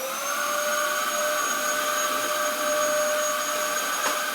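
Hoover vacuum cleaner motor coming up to full speed at the start, then running with a steady whine over a rushing hiss. A single short click near the end.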